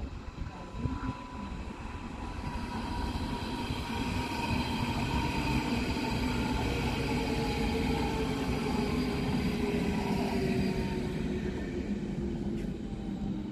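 Berlin S-Bahn electric train passing on the line: the rumble of wheels on rail with the electric traction motors' whine, several tones that sink slowly in pitch. It swells for a few seconds, is loudest in the middle, then eases off as the train moves away.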